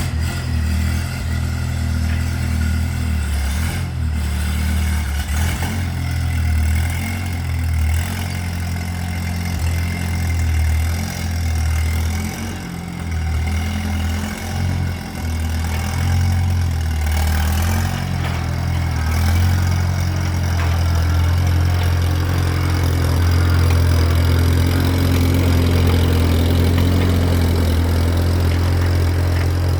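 Allis-Chalmers C tractor's four-cylinder engine running just after a cold-morning start, unevenly at first, then settling into a steadier, slightly louder idle from about twenty seconds in.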